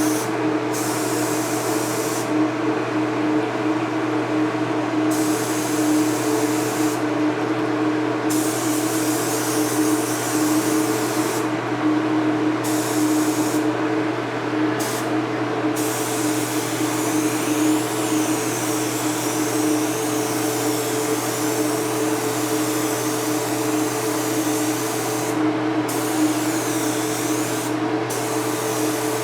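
Paint spray gun hissing as it lays down a coat of silver mini-flake intercoat clear, the hiss stopping briefly several times between passes, over a steady machine hum.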